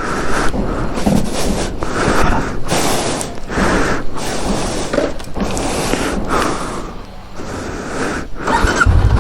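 Irregular rustling and scuffing handling noise, then near the end the Honda CB500X's parallel-twin engine starts up and runs at a steady idle.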